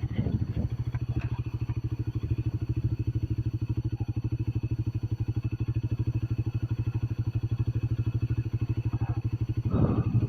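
Single-cylinder TVS Apache RTR motorcycle engine running at a steady, even pace, its rapid firing pulses heard throughout while riding.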